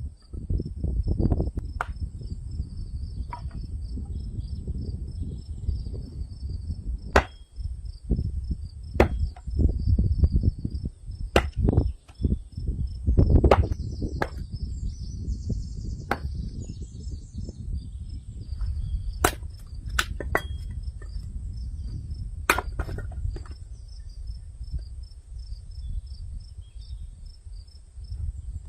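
Insects trilling steadily in a high, pulsing chorus, with a dozen or so sharp knocks scattered irregularly and a low rumble underneath.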